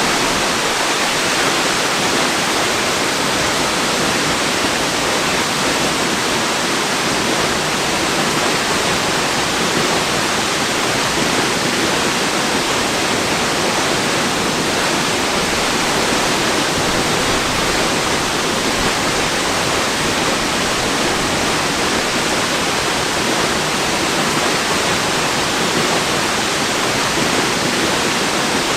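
Waterfall rushing as a steady, unbroken wash of water noise, even and unchanging throughout.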